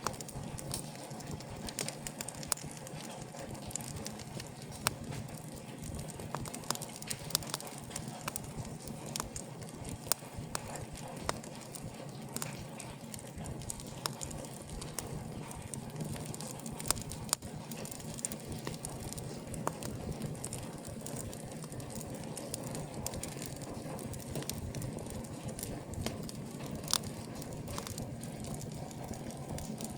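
Wood fire burning in an open fireplace: a steady low rush of flames with frequent irregular sharp crackles and pops.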